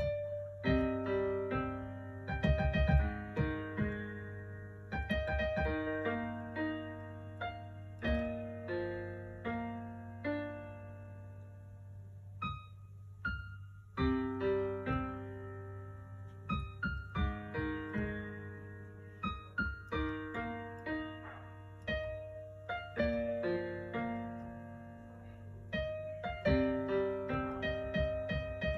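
Piano playing a slow, simple melody of single notes over chords, each note ringing and fading, with a short pause about halfway through. A low steady hum runs underneath.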